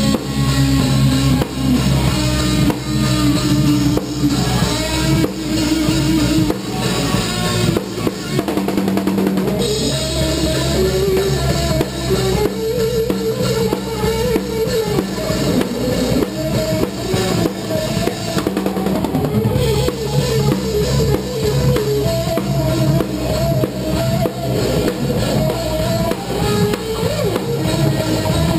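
Band playing live: a drum kit pounds out a steady rock beat on bass drum and snare, over sustained guitar and bass.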